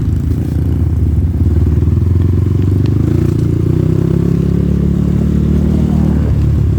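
Off-road motorcycle engine running under the rider, revs climbing steadily from about halfway through, then easing off near the end.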